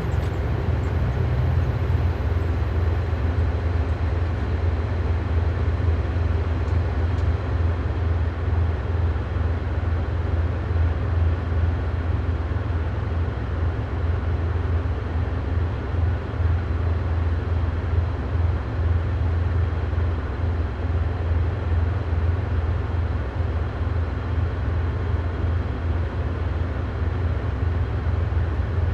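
Engines of heavy military vehicles in a column, a steady deep rumble that neither swells nor fades.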